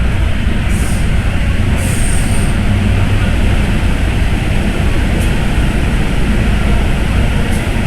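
MTR M-Train electric multiple unit running through an underground tunnel: a steady loud rumble of wheels on rail and motors, with brief high hisses about one and two seconds in.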